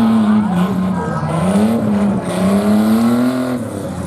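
A race vehicle's engine revving, its pitch rising and falling several times and dropping away near the end.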